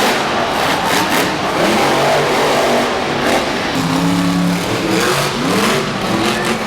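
Monster truck's big V8 engine revving hard, its pitch rising and falling again and again over a loud, steady roar.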